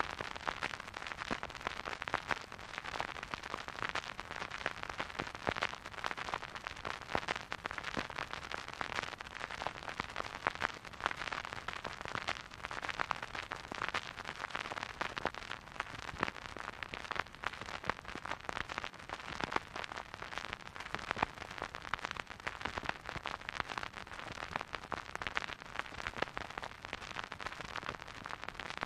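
Vinyl record surface noise from a turntable with no music: a dense, continuous crackle of small pops and clicks over a soft hiss.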